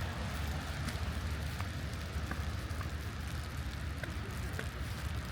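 Street ambience in light rain: an even hiss of rain over a steady low rumble of city traffic, with a few faint scattered ticks.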